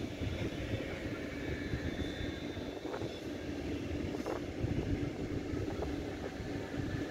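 Red DB Regio double-deck passenger train rolling past at low speed: a steady rumble of wheels on the rails, with a couple of faint clacks.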